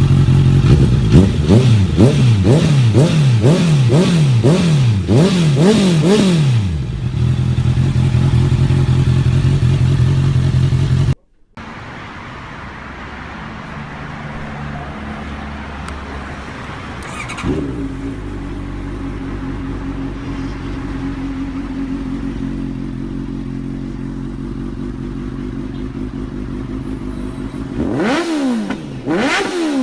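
Honda CBR650F inline-four through aftermarket exhausts: a rapid series of throttle blips, the pitch rising and falling with each, then a steady idle. After a cut, a quieter idle with one short rev, and near the end another run of quick blips.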